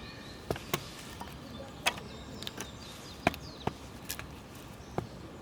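A series of sharp knocks, about six at uneven intervals, with faint bird chirps in the background.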